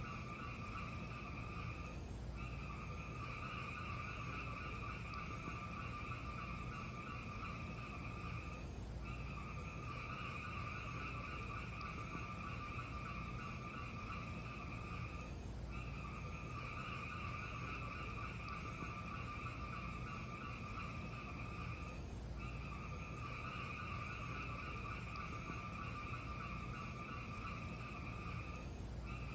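Steady hiss and low rumble of a fireplace sound track, with few sharp crackles. The hiss breaks off briefly about every six and a half seconds, five times, as if the recording loops.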